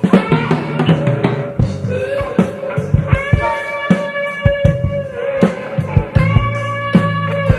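Live jazz-fusion band: a guitar plays long, held lead notes over a drum kit and bass, with regular drum strokes throughout.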